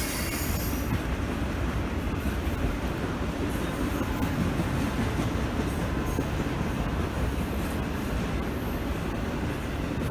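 Train running on the rails with a steady rumble of wheels and cars.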